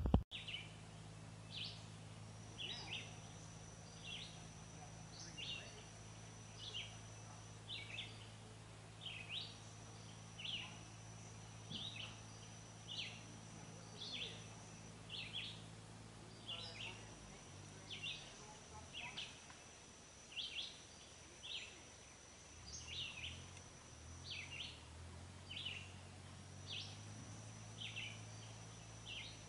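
Faint woodland ambience: a bird chirping over and over, about one to two chirps a second, with a thin high steady tone that comes and goes every few seconds and a low steady hum underneath.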